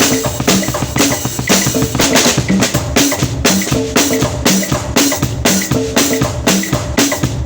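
Music with a drum kit playing a steady beat of kick and snare strikes over short pitched notes.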